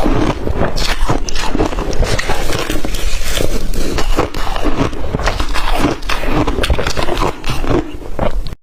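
A person biting and chewing blender-crushed ice: a dense, irregular run of loud crunches.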